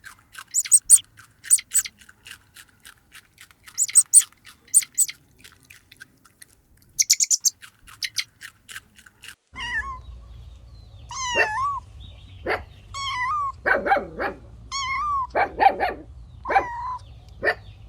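Runs of short, sharp, high-pitched chirps for about the first nine seconds. Then come repeated high-pitched kitten mews that waver in pitch, with several louder, rougher calls among them.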